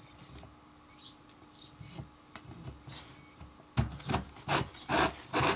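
A wooden beehive frame and a sheet of wired wax foundation being handled: light ticks at first, then a quick series of loud knocks and rubs starting about four seconds in.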